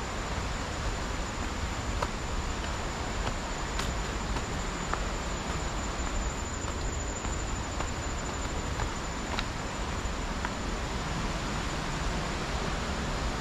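Rainforest ambience: a steady high-pitched insect drone over an even hiss, with a few scattered clicks.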